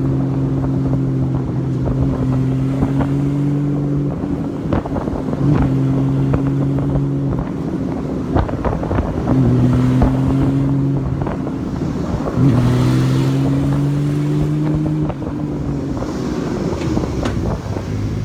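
Honda Valkyrie's flat-six engine running as the motorcycle rides, its steady note breaking off and coming back several times, with wind buffeting the microphone.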